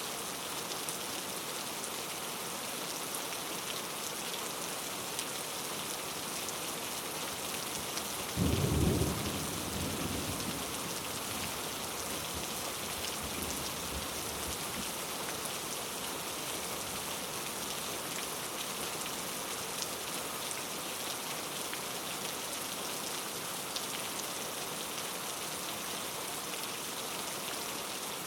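Steady rain falling. A single thunderclap breaks in about a third of the way through and rumbles away over a few seconds.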